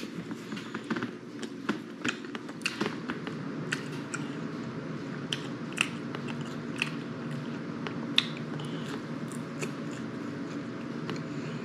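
Close-up chewing and biting of a homemade pizza puff bite, with sharp mouth clicks scattered throughout, over a steady low hum.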